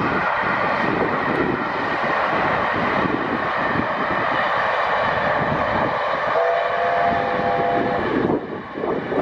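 Train running on the track with a steady rush of noise. About six and a half seconds in, its horn sounds a chord of several notes for about a second and a half. Near the end the sound drops and changes abruptly.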